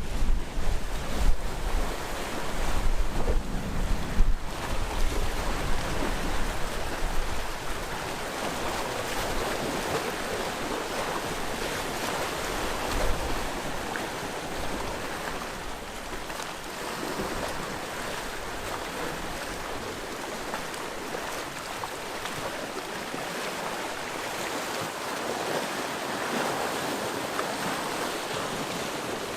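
Sea waves washing continuously onto the shore. Wind buffets the microphone with a gusty low rumble for the first several seconds, then dies down, leaving a steadier wash of surf.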